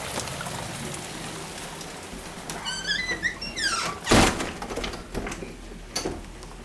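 A sliding door squeaking in short steps as it is moved, then shutting with a loud thunk about four seconds in, over a steady hiss of rain.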